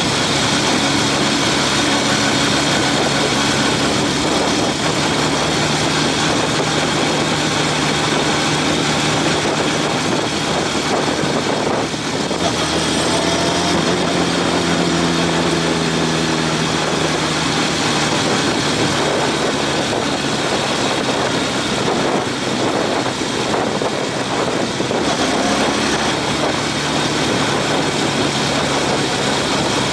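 Honda CB750 motorcycle engine running while ridden, with steady wind rushing over the microphone. The engine note rises and falls about halfway through.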